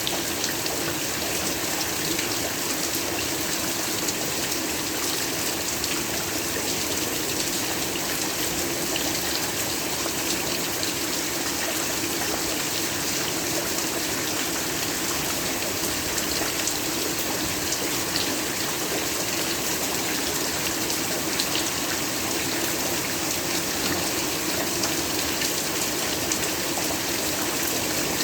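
Heavy rain falling steadily, an even hiss of drops with fine scattered ticks.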